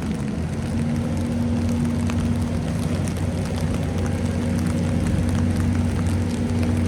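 A motor vehicle's engine running steadily close by, a low hum with a steady higher tone that grows a little stronger about a second in, over a light patter of scattered faint ticks.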